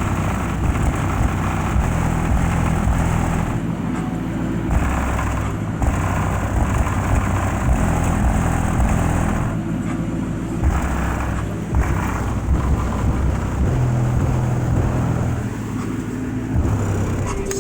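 A song's heavy bass played loud through a Crown Victoria's two 15-inch subwoofers, the low notes shifting every second or so over a muffled upper mix.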